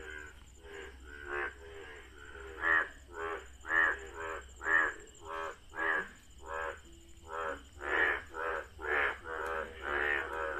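Several frogs croaking in chorus: short repeated croaks overlapping at about two to three a second, sparse at first and louder and busier from about three seconds in.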